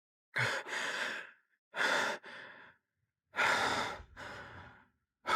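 A person breathing heavily: four loud, hissy breaths about a second apart, each trailing off.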